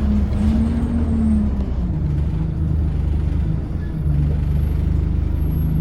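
ADL Enviro 200 Dart bus engine running loudly. Its note drops about one and a half seconds in and then holds steady, with a brief dip a little before four seconds.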